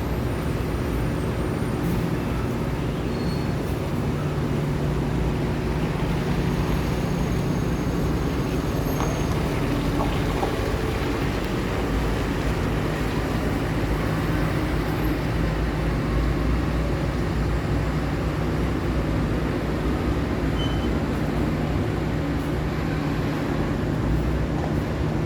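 Steady road traffic: the running engines and tyre noise of passing cars and heavy trucks, with a constant low engine drone.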